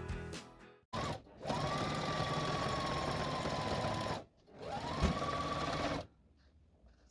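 Electric sewing machine stitching in two runs of about three seconds and a second and a half, its motor whine rising as it speeds up at the start of each run and then holding steady, with a short start just before the first run.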